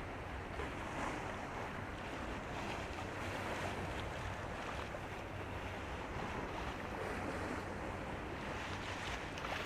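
Steady rush of water and wind, with a low rumble underneath, from a high-speed passenger ferry under way. Wind buffets the microphone.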